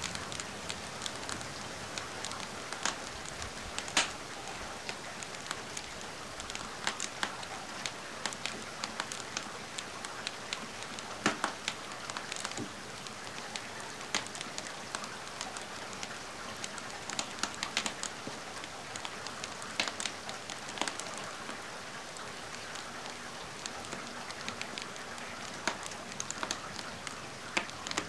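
Steady rain hiss mixed with a wood fire crackling, with irregular sharp pops and snaps scattered throughout; the loudest pops come about four and eleven seconds in.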